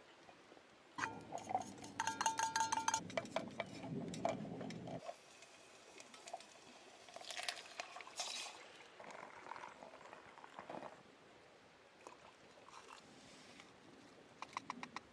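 Metal cookware and utensils clinking and rattling, with a ringing metallic tone around two to three seconds in, then quieter scattered handling clicks and rustles.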